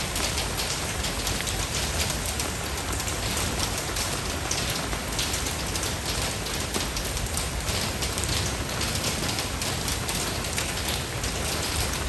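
Steady rain falling, a dense, even hiss with the patter of many drops striking a surface.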